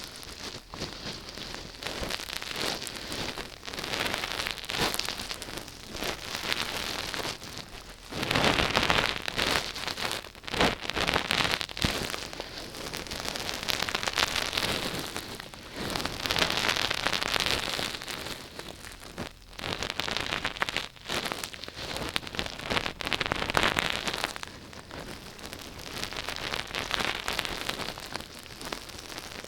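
Dense crackling and scratching noise made close to the microphone, swelling and fading every second or two with brief pauses.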